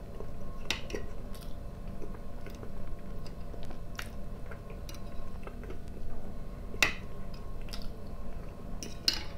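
A man chewing fried potatoes with his mouth close to the microphone, with a few sharp clicks of a metal fork against the plate and teeth; the loudest click comes about seven seconds in.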